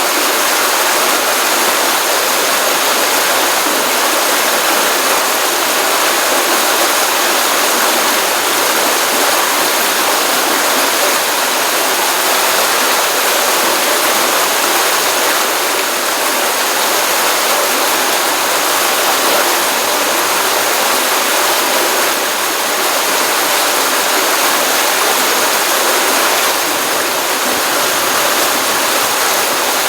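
Water running steadily in a stream flowing from a pond after rain, an even rushing and splashing without breaks.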